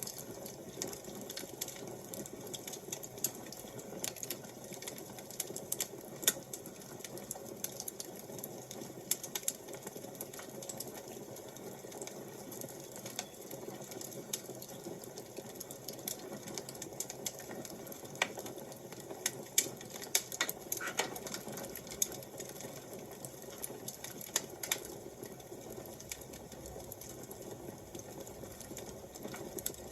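Wood fire crackling: irregular sharp snaps and pops over a steady soft hiss.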